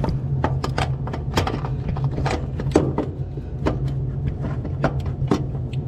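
Scattered, irregular clicks and knocks of tools and parts being handled as a starter is worked loose from a cramped spot on a Ford F-450's engine, over a steady low hum.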